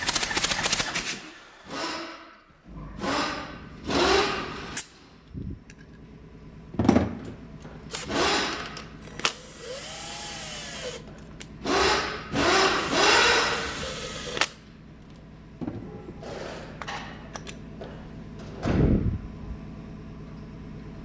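A power tool run in a series of short, irregular bursts, its motor speed rising and falling between them.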